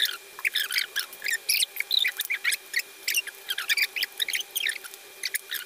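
Close-up wet mouth sounds of someone eating instant ramen noodles: rapid, irregular smacking and squelching of chewing, several small sounds each second.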